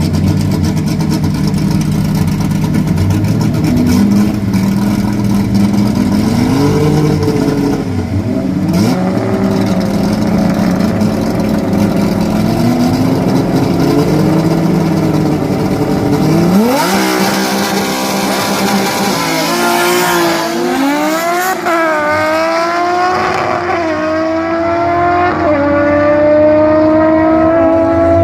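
Drag race car engines blipping the throttle and revving up and down on the start line. About two-thirds of the way through they launch with a sharp jump in engine pitch, then accelerate hard away through several gear changes, the pitch climbing and dropping back at each upshift.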